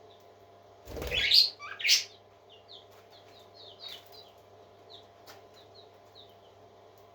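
Parrots chirping: two loud, harsh calls about one and two seconds in, followed by a string of soft, short, high chirps, over a steady low hum.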